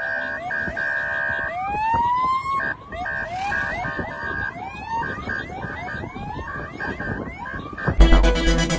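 Sirens: many short rising whoops over a steady high tone, with one longer rising wail about two seconds in. Loud keyboard music with a beat comes in near the end.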